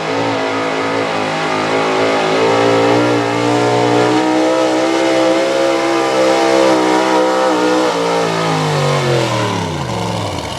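Chevrolet 4x4 pulling truck's engine running hard at high revs under load down the track, then falling steeply in pitch over the last two seconds or so as the throttle comes off at the end of the pull.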